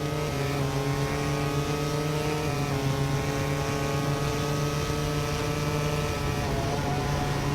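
MotoGP racing motorcycle engine running hard at high revs, its pitch held nearly steady with small steps, then falling slightly near the end.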